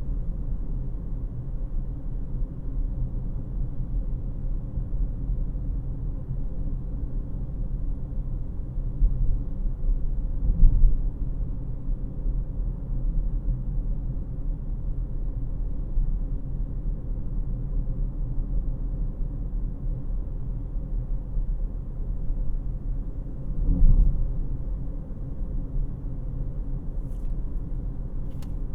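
Cabin noise inside a 2018 Honda CR-V LX on the move: a steady low rumble of its 2.4-litre four-cylinder engine and road noise. The rumble swells briefly about ten seconds in and again about two-thirds of the way through. Two faint clicks come near the end.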